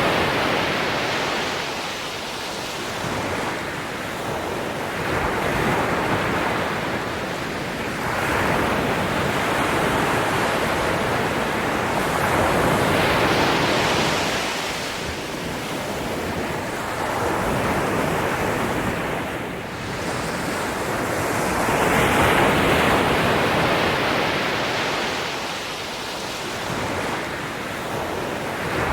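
Ocean waves breaking and washing ashore in a continuous rolling surf, swelling and receding every few seconds.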